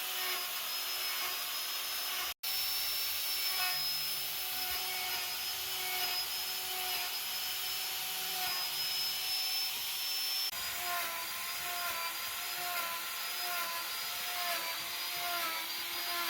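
A small electric power tool running with a steady whine and a rasping hiss as it cuts into wood. It cuts out for a moment about two seconds in. About two-thirds of the way through, its pitch starts to waver up and down as the load on it changes.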